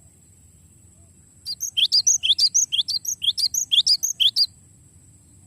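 Cinereous tit (gelatik batu) singing one long rolling phrase: a rapid run of about six repeated chirping notes a second, starting about a second and a half in and stopping sharply about three seconds later.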